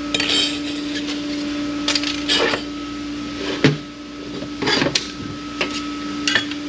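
Metal transmission parts being handled and set down on a workbench: scattered light clinks and knocks, one sharper knock about halfway through, over a steady hum.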